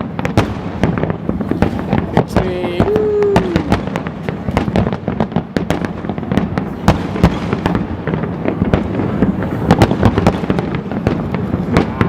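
New Year's fireworks going off in a dense, unbroken barrage: many sharp bangs and crackles, several a second, overlapping all the way through.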